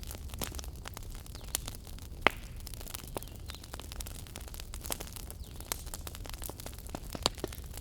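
Wood fire burning in a fireplace, crackling with irregular sharp pops over a steady low rumble; the loudest pop comes a little over two seconds in.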